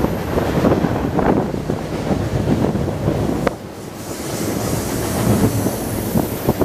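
Freight cars rolling past on the rails below: a steady rumble with irregular wheel knocks and clatter, and one sharp click a little past halfway. Wind buffets the microphone throughout.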